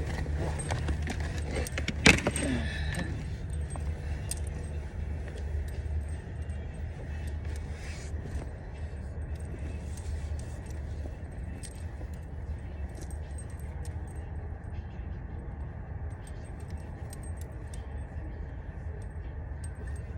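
Small clicks and light rattles of things being handled inside a car, with one sharp knock about two seconds in, over a steady low hum from the car's running engine.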